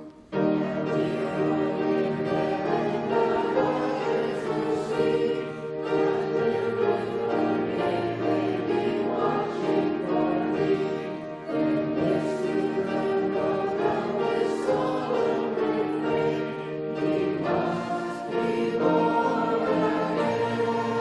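Church choir singing with accompaniment, in sustained phrases a few seconds long with brief breaks between them.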